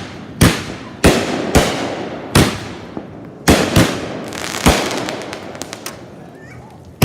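Fireworks exploding: a string of about eight sharp bangs at uneven intervals, each trailing off briefly, with the loudest coming close together near the start and again at the end.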